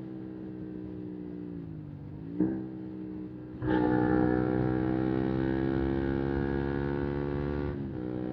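125 cc single-cylinder motorcycle engine on the move: the note falls as the throttle closes, with a sharp click about two and a half seconds in. About a second later the throttle opens hard and the engine runs louder and higher for about four seconds, then eases off near the end.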